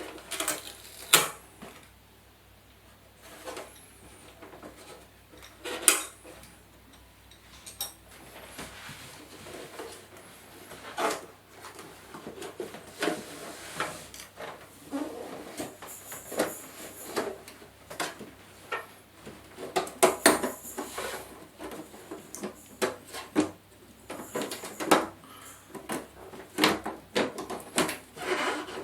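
Irregular clicks, taps and clatter of hand tools and small hard plastic and metal parts being handled while a 32-inch LED TV is taken apart, with a few sharper knocks standing out.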